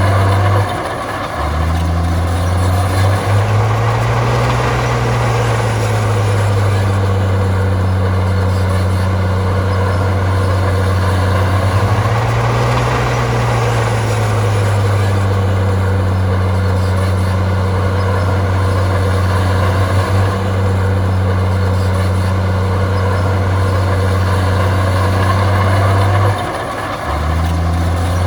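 Heavy diesel engine of an earthmoving machine running hard, its pitch swelling up and back down twice as it revs. The sound dips briefly about a second in and again near the end.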